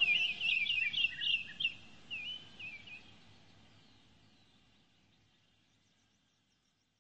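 Bird chirping, a quick run of high chirps over the first three seconds, fading away to silence.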